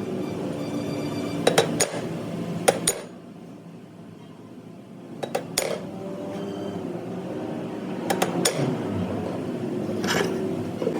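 Sharp metal-on-metal clinks and knocks, mostly in pairs every two or three seconds, over a steady machine hum.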